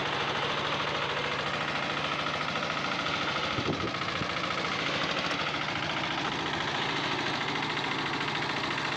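Tractor engine running steadily at idle, with a fast, even knocking pulse. There is a single brief louder knock a little under four seconds in.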